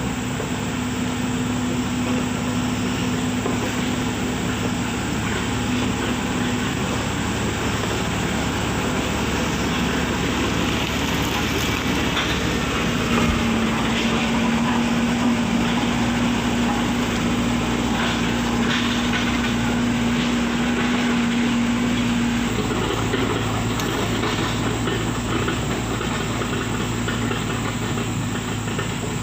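Engine of heavy road-works machinery running steadily under load, with a constant low hum and a rushing mechanical noise; its tone shifts a little higher about halfway through.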